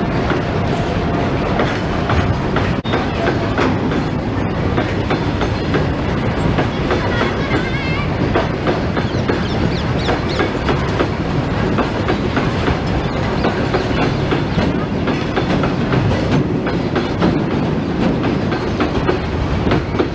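Indian Railways freight train rolling past at close range, its wagon wheels clacking steadily over the rail joints with a continuous rumble.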